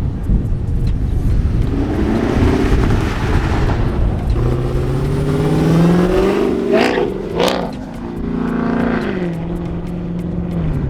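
A car engine revving and accelerating: its pitch climbs over a couple of seconds, peaks sharply about seven seconds in, then drops back and holds at a lower steady pitch near the end.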